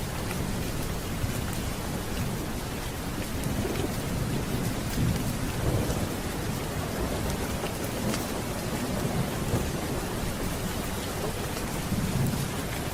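Steady rain with low rolling thunder, the rumble swelling about five seconds in and again near the end.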